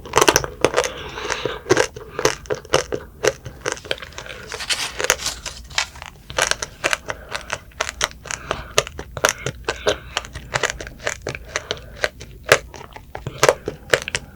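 Close-up chewing of strawberry tanghulu: the hardened sugar shell cracks and crunches in many rapid, irregular crackles between the teeth, with the juicy strawberry underneath.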